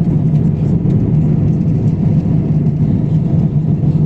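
Steady drone inside the cabin of an Airbus A350-1000 in descent: the noise of its Rolls-Royce Trent XWB engines and the airflow over the fuselage, heard from a window seat, with a strong low hum.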